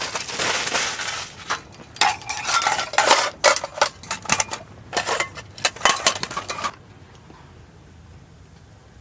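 Metal cookware and utensils clinking and clattering as they are handled, in quick irregular knocks that stop after about seven seconds.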